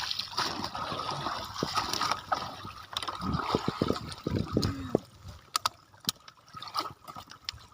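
Water trickling and gurgling as a person moves about in it, fuller for the first few seconds, then thinning to scattered small drips and clicks.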